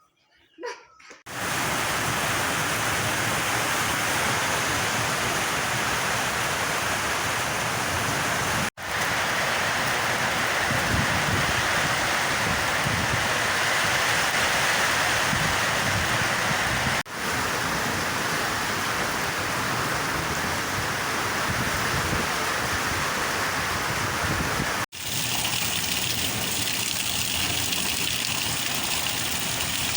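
Heavy rain falling, a steady loud hiss that starts about a second in. It is broken three times by a split-second dropout where separate recordings are joined.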